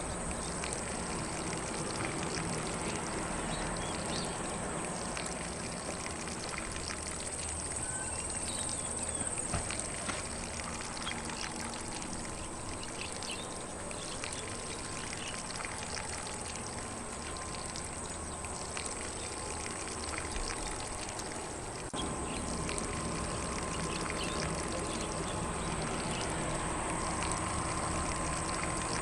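Lawn sprinkler spraying water across grass in a steady hiss, with occasional faint bird chirps.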